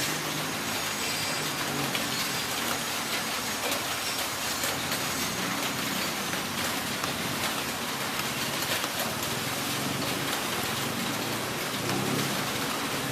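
Heavy rain falling steadily, with dense drops pattering on a surface. A low rumble swells near the end.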